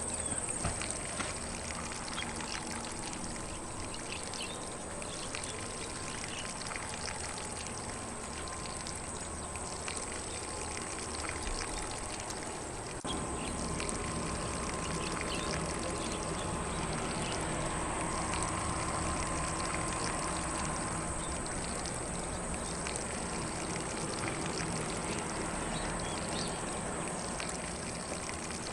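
Lawn sprinkler spraying water onto grass: a steady, even hiss of falling spray, a little louder from about halfway through, with a faint steady high tone above it.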